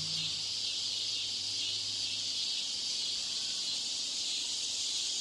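Steady high-pitched hiss from a background-noise track laid under a listening-test recording to mimic poor exam-room sound. A faint low hum stops about two and a half seconds in.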